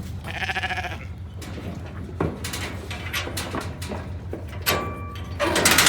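A sheep bleats once near the start, fainter than the bleat just before it. Then come scattered knocks and clicks, and a louder stretch of noise near the end.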